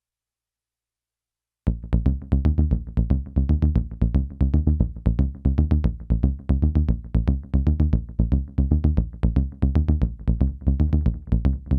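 Behringer Neutron analog synthesizer bass playing a quick repeating run of short, punchy notes through an MXR Carbon Copy analog delay, the echoes overlapping the notes. It starts suddenly about two seconds in, after silence.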